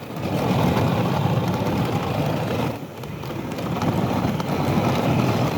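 Dog sled moving over snow: a steady rushing noise of the runners and wind on the microphone, dipping briefly about three seconds in.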